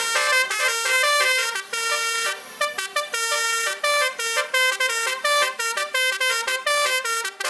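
Truck basuri horn, a multi-trumpet air horn system, playing a fast melody of short stepped notes, loud and continuous.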